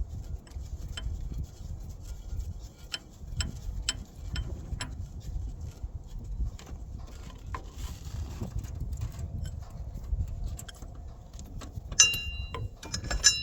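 Hand tools working on a bolt and wire terminal: scattered light metallic clicks and ticks, with a sharp ringing metal clink about twelve seconds in and another near the end, over a steady low rumble.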